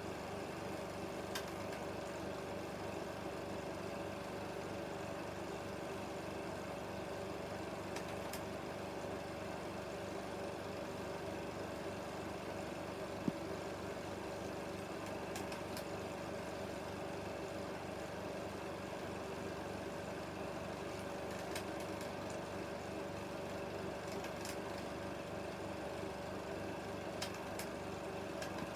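16mm film projector running: a steady mechanical whir and hum with a few faint clicks, one sharper click about halfway through.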